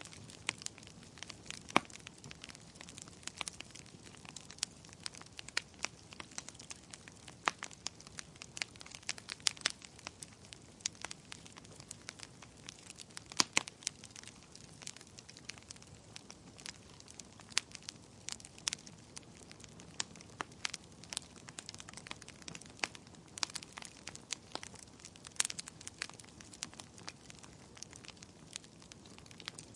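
Bonfire crackling: irregular sharp pops and snaps of burning wood, some louder than others, over a steady low hiss of the flames.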